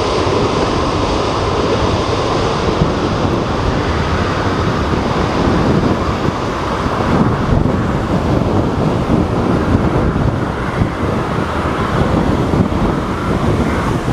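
Strong typhoon wind buffeting the microphone: a loud, constant rushing and rumbling roar.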